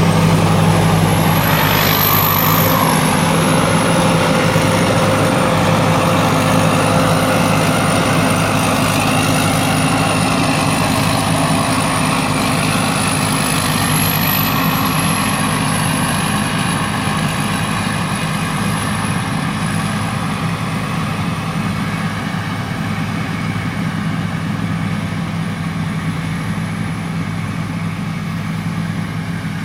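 Rice combine harvester running steadily: a continuous engine hum with a high whine wavering above it, growing slightly quieter toward the end.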